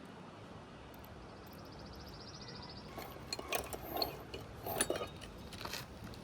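A few light, irregular knocks and clicks from about three seconds in, loudest near the middle, as fasteners are driven into a replacement asphalt roof shingle.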